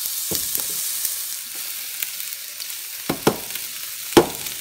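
Sliced onion sizzling steadily in hot vegetable oil in a frying pan. A few sharp knocks sound against the pan as sliced zucchini is added, the loudest about four seconds in.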